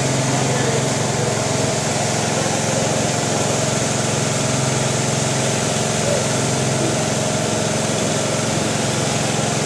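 Car wash machinery running steadily: a constant motor drone with a low hum under a broad hiss, unbroken throughout.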